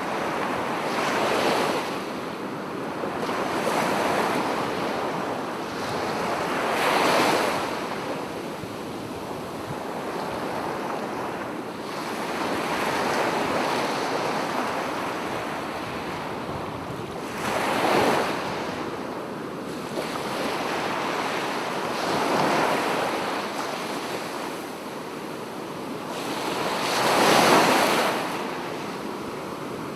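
Sea waves breaking and washing onto a beach, the surf swelling in a surge every few seconds, with three louder breakers: about a quarter of the way in, just past the middle, and near the end.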